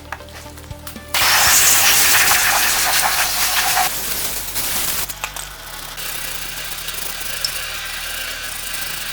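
A car engine starting, with a loud rush of noise for a few seconds, then running steadily at a low, even hum.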